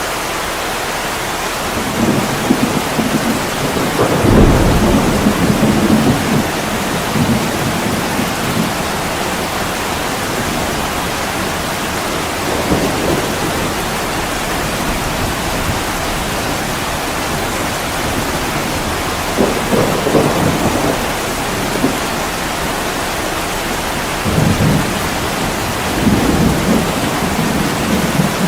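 Heavy rain pouring steadily on a window, with low rumbles swelling up and fading about four times, the longest a few seconds in.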